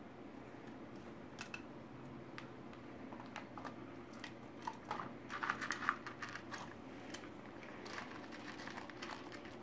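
Faint scattered clicks and scratchy rustling from a pet bird shifting about in its wire cage, with a brief busier flurry about five to six seconds in.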